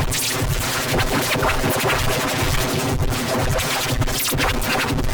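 Heavily distorted, effect-processed commercial soundtrack: music turned into a dense, continuous, harsh wall of sound with no recognisable words.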